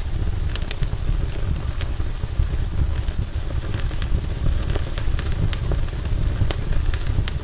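Wood campfire burning: irregular sharp crackles and pops, several a second, over a steady low rumble.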